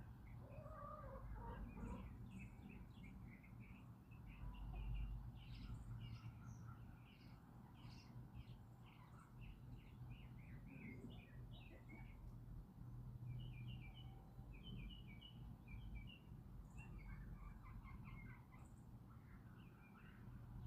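Small birds chirping and twittering in quick, short notes throughout, faint, over a steady low rumble. A brief lower call about a second in.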